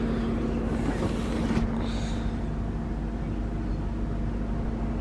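2002 Ford Thunderbird's 3.9-litre V8 idling steadily: a constant low hum with a steady tone.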